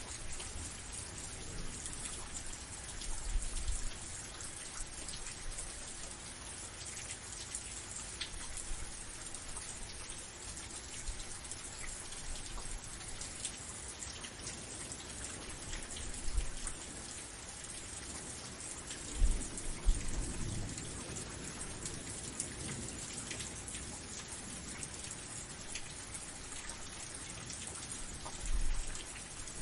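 Steady rain falling: a dense hiss of drops with fine pattering ticks. A few brief low rumbles come through, the loudest about twenty seconds in.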